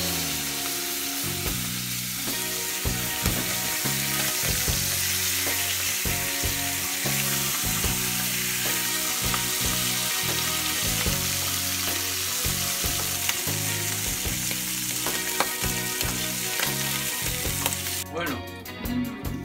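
Squid sizzling in hot oil in a frying pan while being stirred and turned with a wooden spoon. The sizzle dies down near the end.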